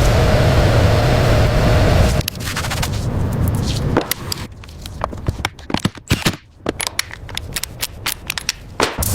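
A steady mechanical whir for about two seconds, then a rapid, irregular series of sharp clicks and knocks.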